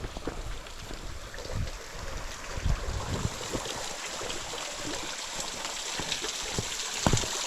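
Rushing, falling water hissing steadily and growing louder about halfway through, with scattered low thumps.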